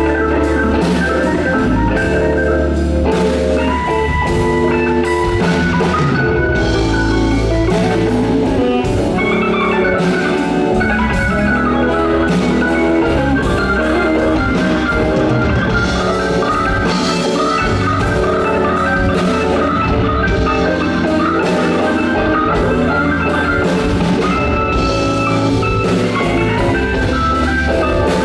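Live blues band playing an instrumental passage of a slow blues, with drum kit and electric guitar, and no vocals.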